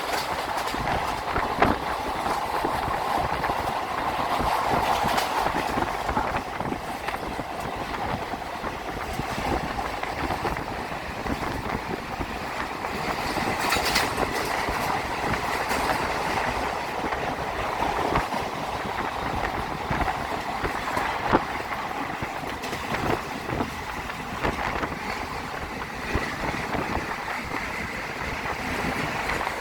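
A moving train running on the track: a steady rumble and rattle with scattered sharp clicks of the wheels over the rails.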